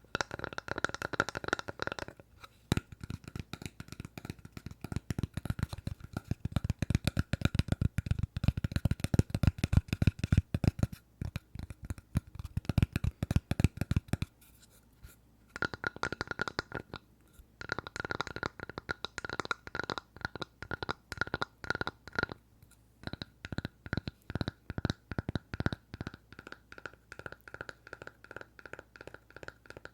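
Fingers tapping rapidly on a piece of wood, in runs of quick, closely spaced taps with short pauses about two seconds in and about fifteen seconds in.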